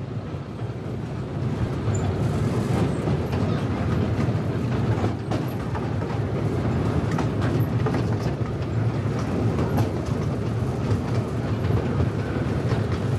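Amusement park train running along its track, heard from aboard: a steady low rumble from the cars with scattered clicks of wheels over rail joints, swelling up over the first couple of seconds.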